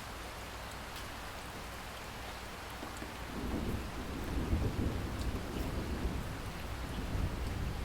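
Steady rain falling, with scattered drop ticks, as a low rumble of thunder swells from about three seconds in and rolls on.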